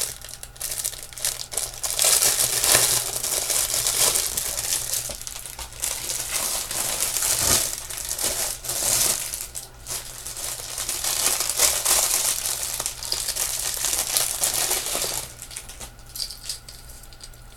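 Plastic packaging crinkling and rustling as a costume-jewelry necklace is worked out of it, with small metallic clinks of the chain and beads. The rustling stops about fifteen seconds in.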